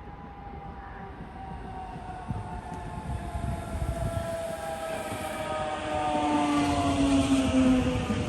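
Electric train approaching, getting louder, its traction motors whining in several tones that slowly fall in pitch as it slows.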